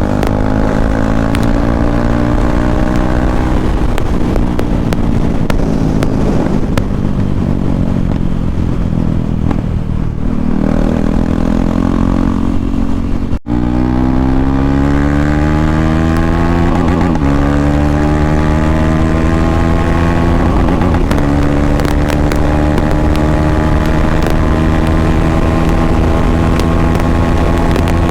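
KTM Duke 390's single-cylinder engine running with no exhaust fitted, loud and raw. Its pitch climbs slowly as the bike accelerates and drops back at gear changes, four or five times. There is a very short break in the sound about halfway through.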